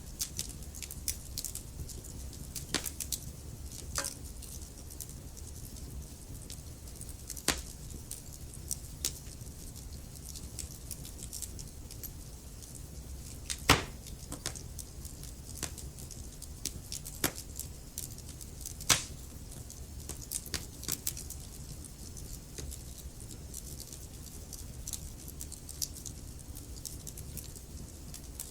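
Wood fire crackling in a fireplace: irregular sharp pops and snaps, the loudest about 14 seconds in and again about 19 seconds in, over a steady low rumble.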